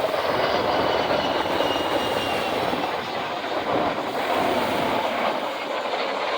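Steady rumbling drone of military aircraft flying low overhead: a C-130 Hercules's turboprops and Pave Hawk helicopters together during aerial refuelling.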